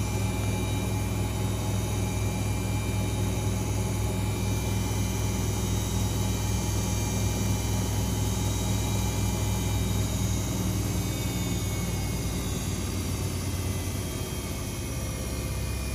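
Front-loading washing machine drum in its final high-speed spin: a steady motor-and-drum hum with a low drone. About ten seconds in the low pitch shifts and the sound eases slightly.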